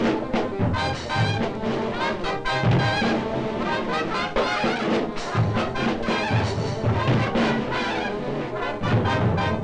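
Lively brass-led band music from an early-1930s cartoon score, with frequent short sharp hits and a pulsing bass line.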